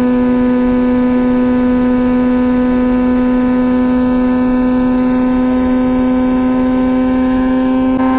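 2004 Honda CBR1000RR inline-four engine through a Jardine titanium exhaust, held at high, steady revs while riding, its pitch climbing slowly, with a brief dip near the end.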